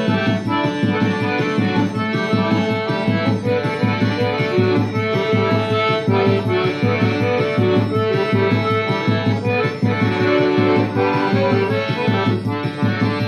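Button or piano accordion (sanfona) playing a forró tune with sustained chords and melody, over a steady, regular drum beat.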